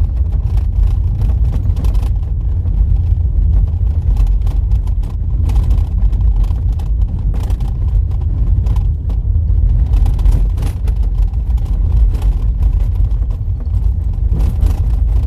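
Car driving on a rough, potholed dirt road: a loud, steady low rumble of tyres and suspension, broken by frequent short knocks and rattles.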